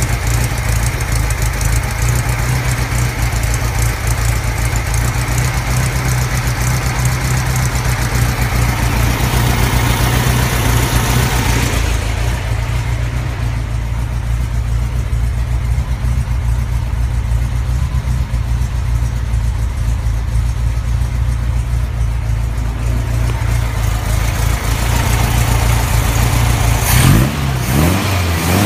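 Air-cooled VW flat-four engine of a Meyers Manx dune buggy idling steadily on a 34 PICT-3 carburetor, its idle problem resolved. Near the end the engine briefly revs up and settles back.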